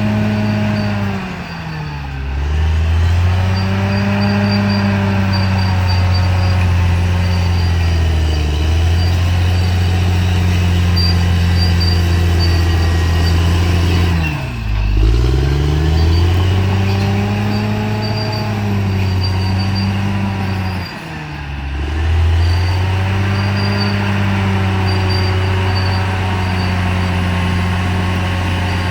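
Bulldozer's diesel engine running steadily, its pitch sagging and recovering three times: about two seconds in, about halfway, and about two-thirds of the way through.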